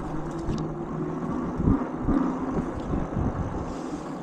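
Wind buffeting the microphone while riding a bicycle outdoors, an uneven low rumble, with a steady low hum in the first second that then stops.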